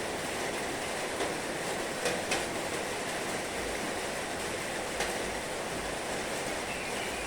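Heavy rain falling steadily, an even hiss with a few louder drop hits now and then.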